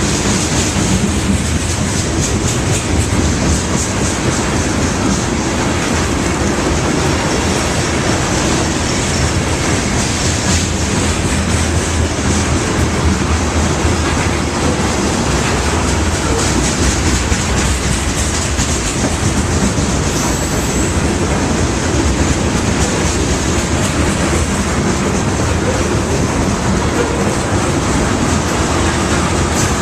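Loaded crude oil tank cars of a freight train rolling past at speed, wheels clacking steadily over the rail joints.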